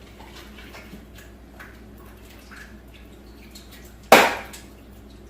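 Faint drips and light clicks from a plastic seed sprouter being rinsed with water, then one loud sharp knock about four seconds in that dies away quickly.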